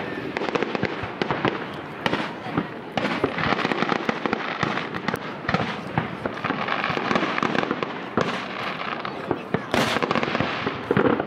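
Fireworks display: a continuous run of aerial shell bursts and crackling, with many sharp bangs close together.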